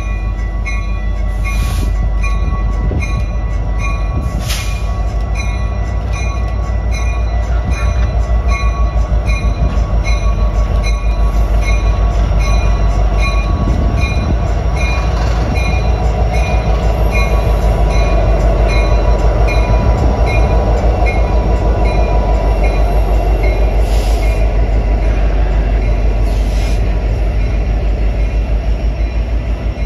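A train passing close by: a loud, continuous rumble of wheels on the rails with a rapid clatter, swelling toward the middle and easing slightly near the end.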